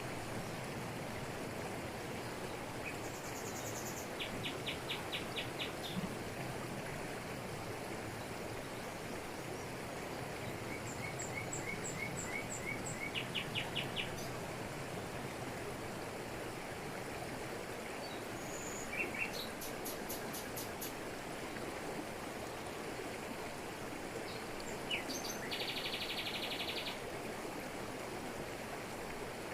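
Waterfall pouring over rocks in a tropical forest, a steady rush of water. Birds call over it several times: short rapid trills and runs of chirps, the longest buzzy trill near the end.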